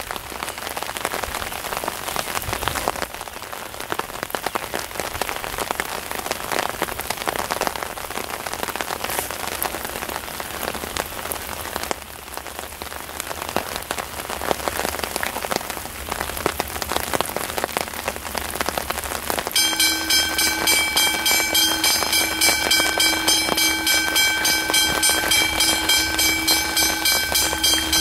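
Steady hiss of rain falling. About two-thirds of the way through, a loud pulsing warning tone with several pitches starts suddenly and repeats evenly a few times a second, the kind of electronic bell heard at a level crossing as a train approaches.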